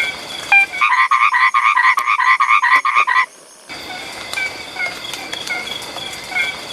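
Animal calls: a steady background of short repeated chirps. From about a second in, a loud run of rapid pulsed calls, about five a second, lasts a couple of seconds, then stops abruptly, and the chirping comes back.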